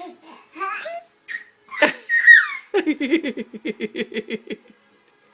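A high excited squeal about two seconds in, then a run of rapid laughter, about eight pulses a second, lasting roughly two seconds.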